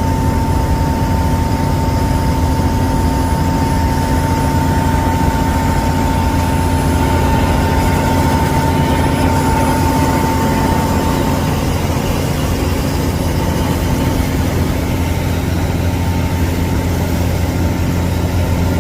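Heavy engine running steadily with a deep low drone, and a thin steady whine over it that fades out a little past halfway.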